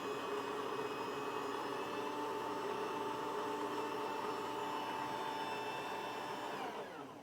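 Philips 3200-series fully automatic espresso machine starting a brew cycle after the start button is pressed: a steady mechanical whine with several tones, which slides down in pitch and fades near the end as the motor winds down.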